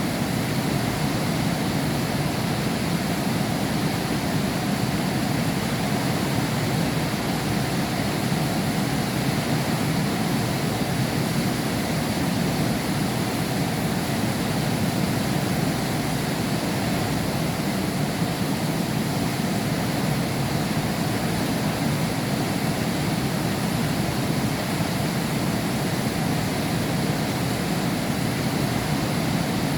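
Heavy rain falling steadily, heard through window glass, an even hiss with most of its weight low down.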